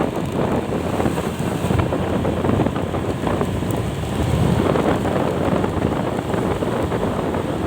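Wind buffeting the microphone during a ride, over steady road and vehicle noise.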